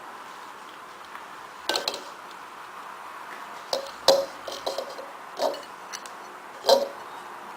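Scattered clinks and knocks of kitchen containers and dishes being handled, about half a dozen short hits with a little ringing, the loudest near the end. The blender motor is not running.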